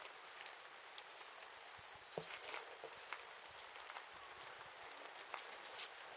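Wood fire crackling, with irregular sharp pops and snaps over a soft hiss; the loudest pop comes near the end.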